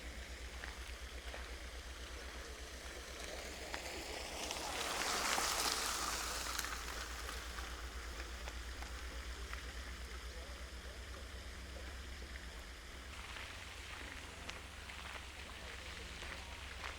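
Outdoor walking ambience: a steady low rumble and light hiss, with a rushing noise that swells and fades about five seconds in.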